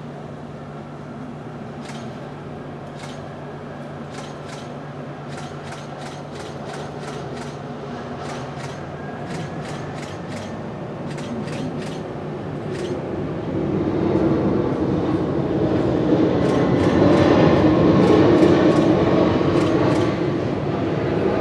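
Jet noise from an Airbus A340-500's four Rolls-Royce Trent 500 turbofans, growing steadily louder as the aircraft nears and loudest about three-quarters of the way through. Faint sharp clicks are scattered through the first half.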